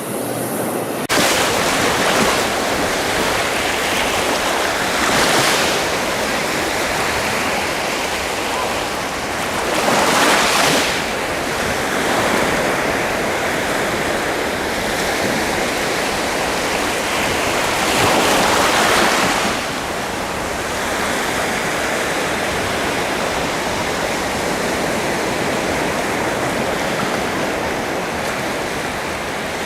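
Sea surf: a steady wash of waves with louder surges of breaking water about 5, 10 and 18 seconds in.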